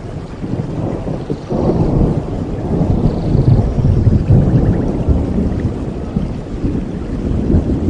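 Thunder rumbling over steady rain in a rainforest storm, swelling about a second and a half in and staying loud through the middle before easing a little near the end.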